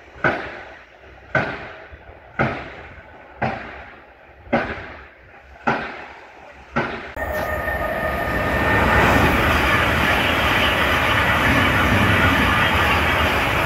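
A sharp knock repeats about once a second, each ringing out briefly, then stops about seven seconds in. A train then passes at speed: a loud, steady rush of wheels on rails with a faint whine.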